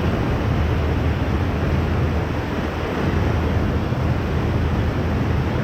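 Steady rush of whitewater on the Ocoee River around a raft, with wind buffeting the microphone, heaviest in a low rumble.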